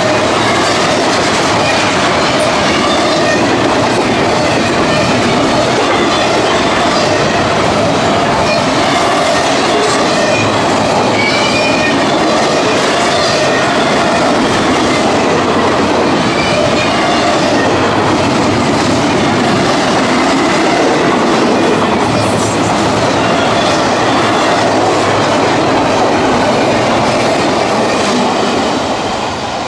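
CSX intermodal freight train's cars rolling past, wheels clattering steadily over the rails with faint wheel squeal at times. The noise begins to fade near the end.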